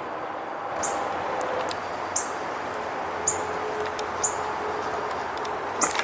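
A small bird calling: five short, very high chirps, each sliding downward, about a second apart, over a steady background hiss.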